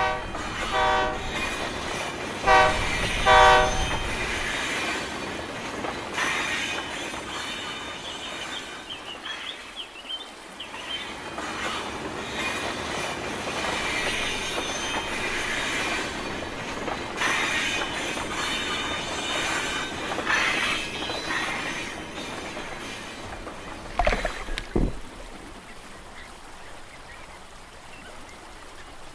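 Train passing: a few horn blasts in the first few seconds, then the steady rumble and clatter of the rail cars rolling, with high wheel squeal. A sudden loud bang about 24 seconds in, after which the train noise drops away.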